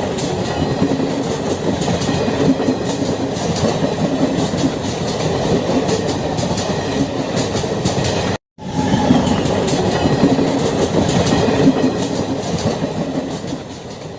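Passenger train coaches rolling past at close range: a steady rumble of wheels on rail with repeated clicks over the rail joints. The sound cuts out abruptly for a moment about eight seconds in, resumes, and fades as the last coach pulls away.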